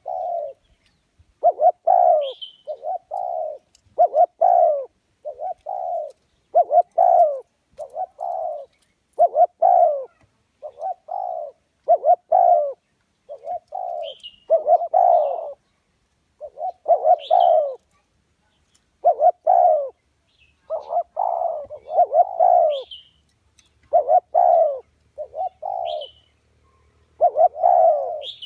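Spotted dove cooing over and over in quick phrases of two or three low notes, the lure call used to draw wild doves to a trap. Short high chirps come in now and then between the coos.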